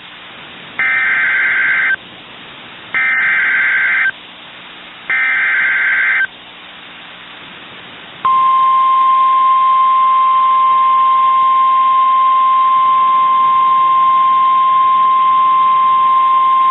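NOAA Weather Radio alert signalling. There are three bursts of warbling SAME data header, each about a second long. Then, about eight seconds in, the steady 1050 Hz warning alarm tone starts and holds, marking the start of a new warning broadcast.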